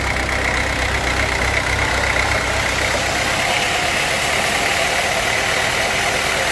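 Sawmill machinery running steadily: a constant high whine over an engine hum, the low hum dropping away about three seconds in.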